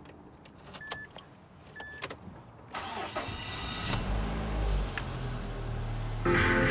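Two short beeps, then a Mazda3's engine is cranked with the ignition key, catches and settles into a steady idle. Music starts near the end.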